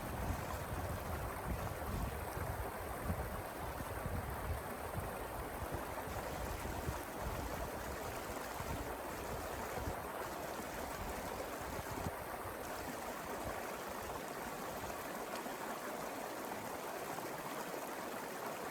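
A mountain river flowing steadily, an even rushing of water, with an uneven low rumble underneath that dies away near the end.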